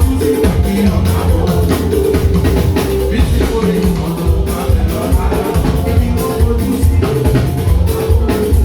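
Loud live church band music with drum kit and bass playing a steady beat, with some singing.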